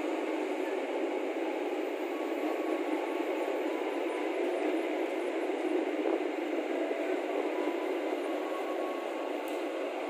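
Steady, even running noise of an Argo Parahyangan passenger train at the station platform.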